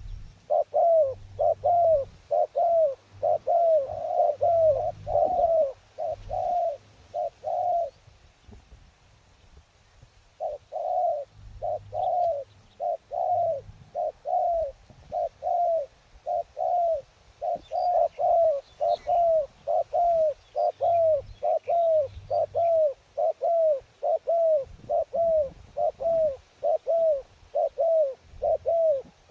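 A dove cooing in a long, fast series of short arched notes, about two a second, with a brief pause about eight seconds in.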